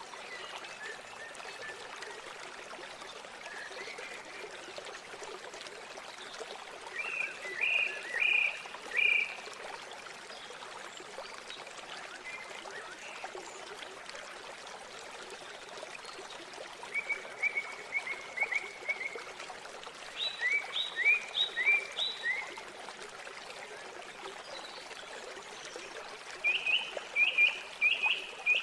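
River water running steadily, with a bird singing short phrases of quick, high repeated chirps about four times.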